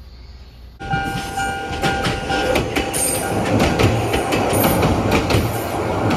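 A former Keio 5000-series electric train of the Ichibata Electric Railway passes close by on a steel girder bridge, starting abruptly about a second in. Its wheels clatter rapidly over the rail joints, with a steady whine underneath.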